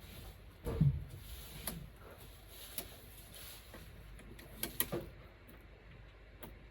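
A low thump about a second in, followed by several light clicks and knocks: objects being handled and set down during work.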